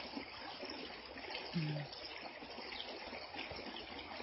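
Creek water running steadily over rocks, a soft even rush. About a second and a half in, a brief low hum of a voice is heard.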